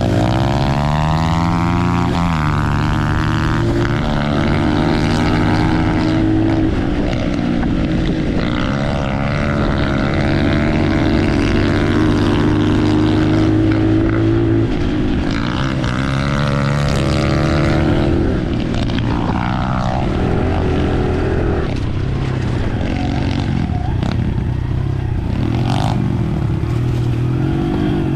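Dirt bike engines accelerating hard from a standing start, then running along the trail, the pitch climbing in the first couple of seconds and rising and falling with throttle and gear changes.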